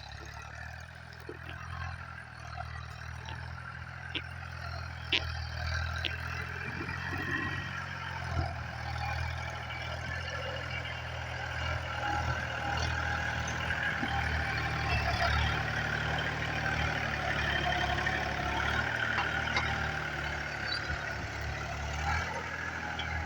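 Farm tractor engine running steadily under load while tilling the soil, a low drone with a broad rushing noise above it that grows louder over the first half, then holds.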